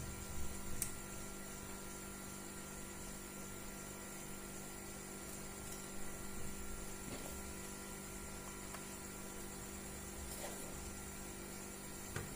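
Steady electrical hum with a few faint, scattered clicks and knocks.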